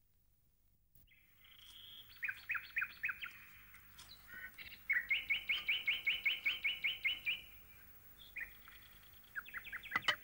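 Small birds chirping in quick runs of repeated high notes, one run going at about six notes a second, with a couple of sharp clicks just before the end.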